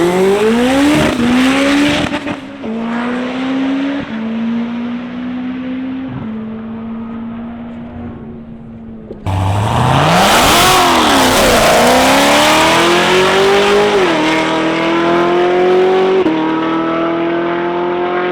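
A drag-racing car accelerating hard, its engine pitch climbing through the gears and then fading as it pulls away. About nine seconds in, another engine comes in suddenly loud: its pitch dips and rises at the launch, then climbs with two gear shifts.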